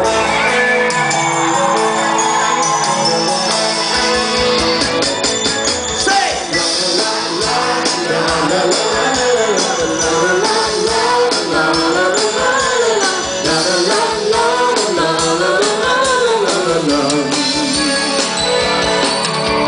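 Live band playing rock music, with a wavering lead melody line rising and falling over the band through the middle.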